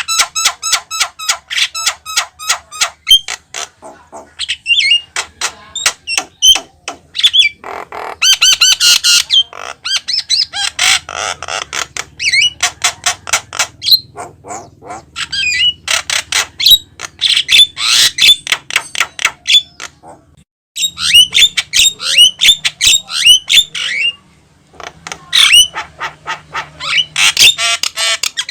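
Javan myna (jalak kebo) singing non-stop: fast runs of clicking and chattering notes mixed with harsh squawks and whistles. There are two short breaks, around two-thirds of the way through.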